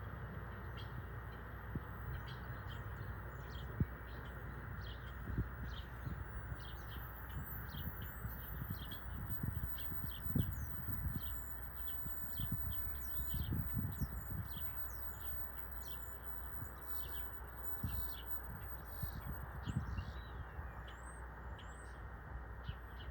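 Small birds chirping repeatedly in quick, short, high notes, with wind gusting on the microphone as an irregular low rumble.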